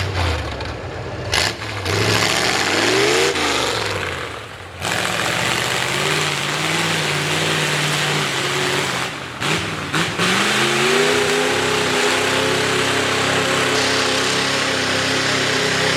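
V8 mud truck engine with open upright headers, revving up and down in the first few seconds, dropping off briefly, then, after a short break about ten seconds in, climbing and holding at a steady high run.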